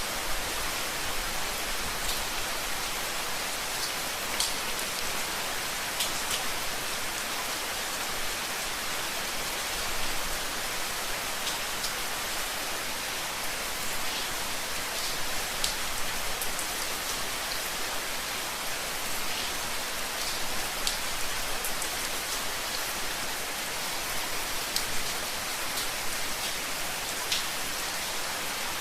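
Steady rain falling on a hard surface: a constant hiss with scattered individual drops ticking through it.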